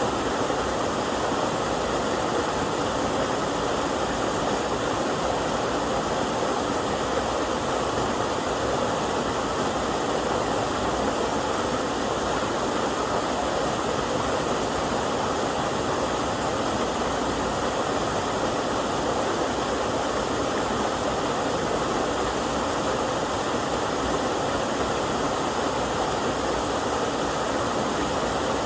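Steady rush of a two-stranded 6 m waterfall pouring over a weir-like step in a mountain stream, running with a low flow; an even, unbroken roar of falling water.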